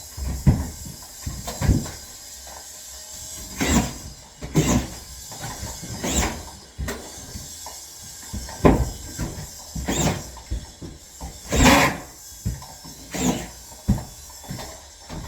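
Irregular knocks and short scrapes of drywall work: sheets and tools being handled, set down and scraped. One longer, rougher scrape comes about two-thirds of the way through.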